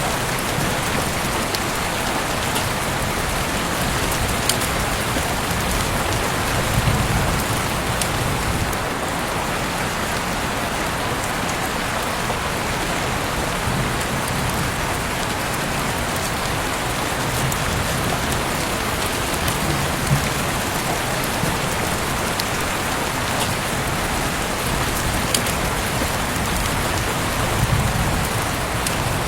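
Heavy rain falling steadily outside an open window: a dense, even hiss with scattered sharp drop ticks.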